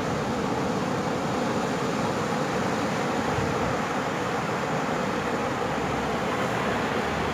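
Ocean surf on a sandy beach: a steady rush of waves with no single crash standing out.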